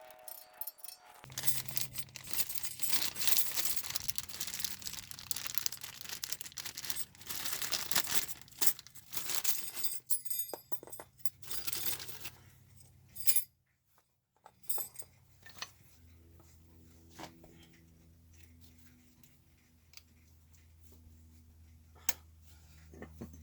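Harsh scrubbing and scraping on brake parts for about twelve seconds while they are cleaned, followed by a few light metallic clicks and taps.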